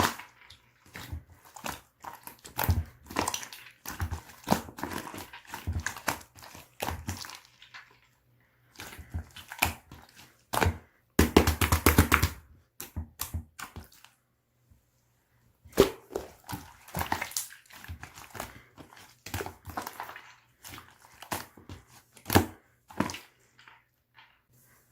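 Slime being squished and pressed by hand, giving runs of sharp clicking, crackling pops, with a dense flurry of pops about eleven seconds in and a couple of short pauses.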